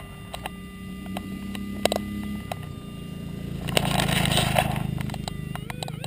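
Digging in a hole: scattered knocks and clicks, with a scraping rush of soil about four seconds in, over a steady low engine rumble.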